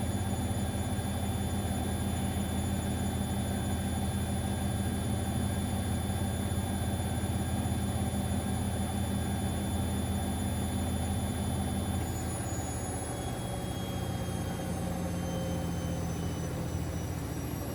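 Siemens Extraklasse XLS 140 A washing machine spinning, its motor giving a steady high whine over a low hum; about twelve seconds in, the whine starts falling in pitch as the drum slows down.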